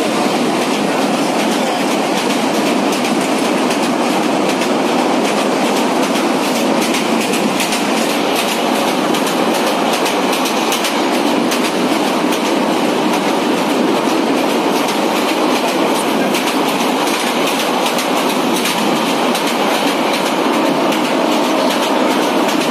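Passenger train carriage running at speed, heard through an open window: a steady rumble of wheels on rails with rapid clickety-clack. The clatter grows denser about a third of the way in as the train runs onto a steel truss bridge.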